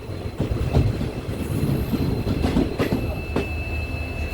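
Passenger train running on the rails: a steady low rumble with several sharp, irregular clacks as the wheels cross rail joints.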